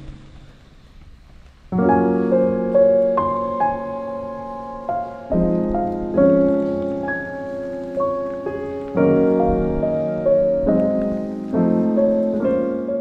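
Background piano music: quiet for the first couple of seconds, then a run of struck notes and chords, each ringing out as it fades.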